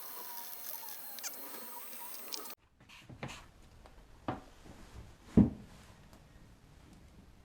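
A steady hiss that cuts off abruptly about two and a half seconds in, followed by a few scattered light clicks and knocks of handling work, with one sharper knock about five seconds in.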